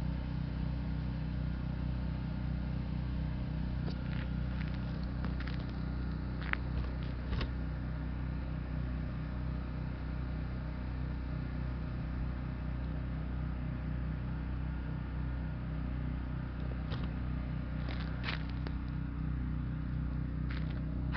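A vehicle engine running steadily at a low, even hum, with a few short clicks and crackles over it about a quarter of the way in and again near the end.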